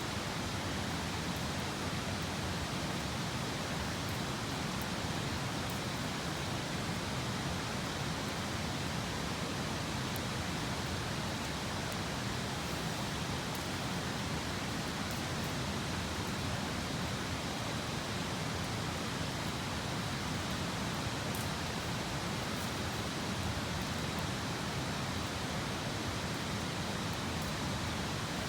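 Steady rushing of flowing river water, with a few faint, scattered crackles from a wood campfire.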